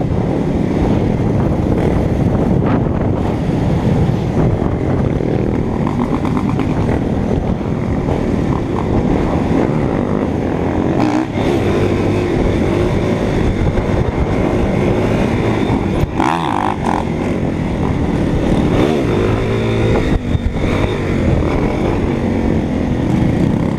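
Motorcycle engine running while riding, its pitch rising and falling a few times as the revs change.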